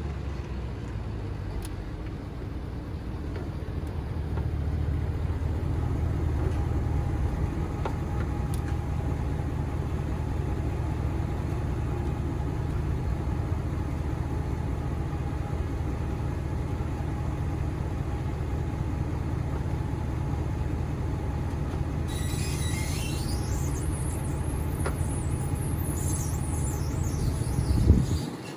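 A vehicle engine idling steadily with a low hum. High squeaky chirps join in for the last several seconds, and a sudden bump, the loudest moment, comes just before the end.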